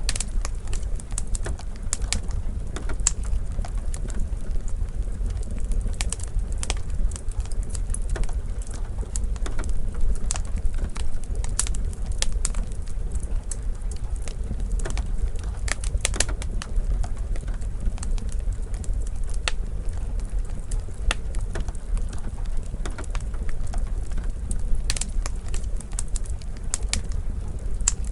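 Wood fire crackling in a fireplace: irregular sharp pops and snaps over a steady low rumble, with the soft hiss of rain.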